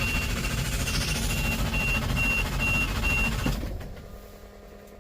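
Detroit 8.2 L V8 diesel cranking over on the starter without firing, its fuel shut off for a relative compression test. The cranking stops about three and a half seconds in. A high electronic beeper sounds about twice a second alongside it and stops with it.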